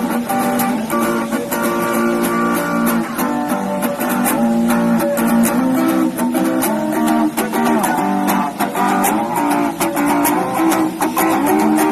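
Acoustic guitar strummed in chords, the chord changing every second or two, on the Guitarralinda street guitar bike.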